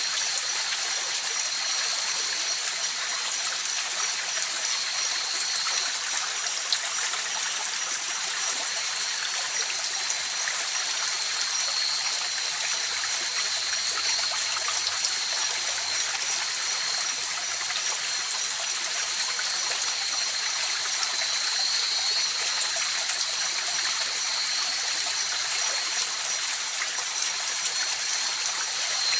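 Mountain river flowing over rocks: a steady rush and trickle of water. Two thin, steady high-pitched trills from night insects run over it.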